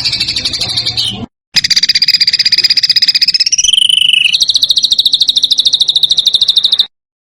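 Recorded songbird song of harsh, rapid rattling trills: one trill cuts off a little over a second in, and after a brief silent gap a long trill starts, dips lower in pitch for a moment in the middle, then runs on higher and steady before stopping abruptly near the end.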